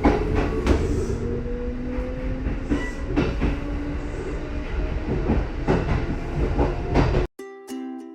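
Kintetsu 80000 series 'Hinotori' electric limited express train running, with a motor whine rising slowly in pitch and wheels clicking over rail joints. It cuts off suddenly near the end into ukulele music.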